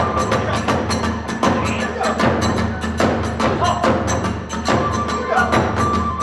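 Hiroshima kagura accompaniment: drums and hand cymbals struck in a fast, dense rhythm, with a bamboo flute holding high notes over them.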